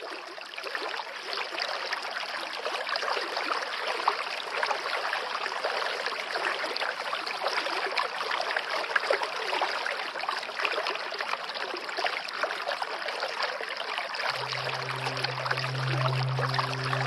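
Water running and trickling steadily, like a small stream. Near the end a low held musical tone comes in beneath the water.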